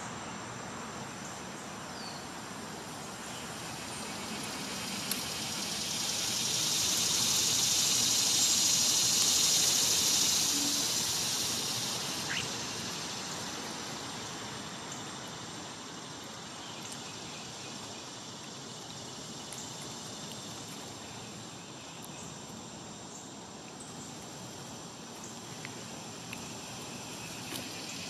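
Outdoor ambience: a steady hiss with a faint, steady high-pitched tone, and a rush of noise that swells for several seconds in the middle and then fades away. There is no clear birdsong.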